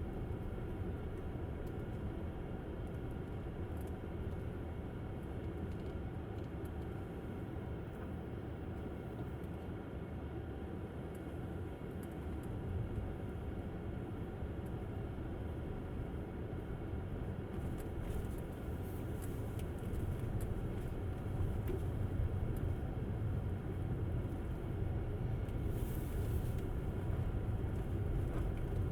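Tesla Model S driving on snow-covered roads: a steady low rumble of tyres and road, growing a little louder about halfway through. The car is electric, so there is no engine note.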